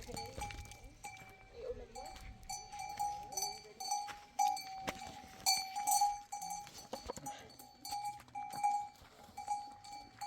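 A metal livestock bell ringing over and over in short, uneven dings, about one to two a second.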